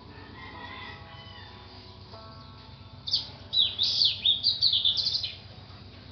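Soft background music, with a bird chirping loudly about halfway through: a quick run of short, falling, high-pitched notes lasting about two seconds.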